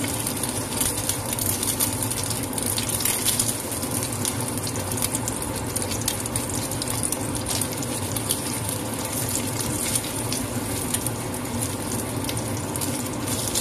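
Egg frying in hot oil in a wok: a steady sizzle with frequent small crackles and pops, over a steady low hum.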